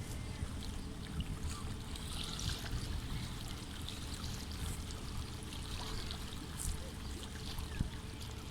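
Water trickling and lapping around a small boat, with small scattered splashes and a steady low rumble underneath.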